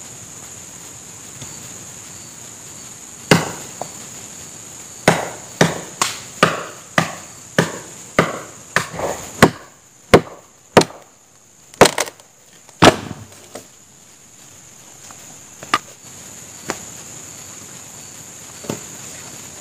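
Wood being chopped with a blade: a run of about fifteen sharp chops at roughly two a second, then a few scattered blows near the end.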